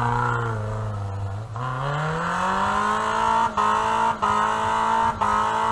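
An off-road 4x4's engine pulling under load. Its pitch sags for about a second and a half, then climbs and holds high, with a few sharp knocks in the second half.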